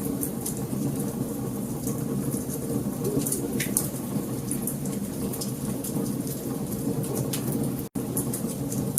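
Wood fire crackling in a fireplace: a steady low rush of flames with frequent sharp pops and snaps from the burning logs. The sound cuts out for a split second near the end.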